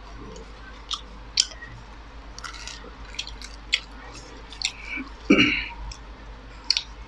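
Close-miked chewing and wet mouth smacks of someone eating noodles and fried momo by hand, with scattered short clicks. There is a louder throaty sound about five seconds in.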